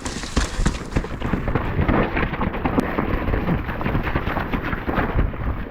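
Mountain bike riding slowly down a wet, muddy trail: continuous irregular rattling and knocking from the bike over rough ground, with a heavy rumble on the camera microphone.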